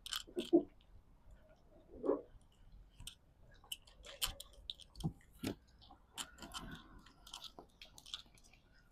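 Faint, scattered rubbing and small clicks of a wet towel scrubbing bug splatter off a car's paint.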